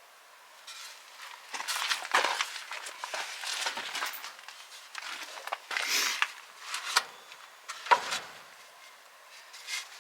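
Scrap wood being handled and fitted: irregular knocks, clatters and scrapes of wooden pieces against each other and the frame, with a sharper knock about eight seconds in.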